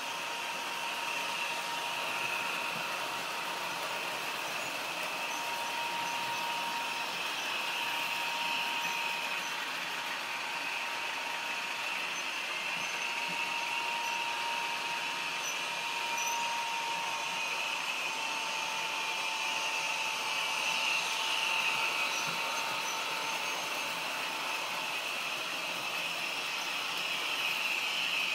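OO gauge model diesel locomotive with a DCC sound decoder running on the track, its engine sound from the onboard speaker steady over the mechanism's running noise. A thin steady tone fades out near the end.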